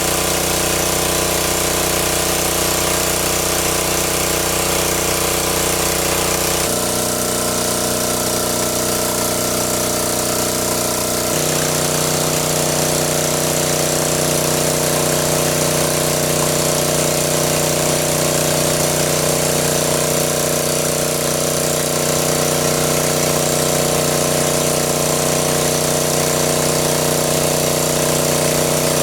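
A small engine running steadily at a constant pitch, the pitch jumping to a new steady note twice.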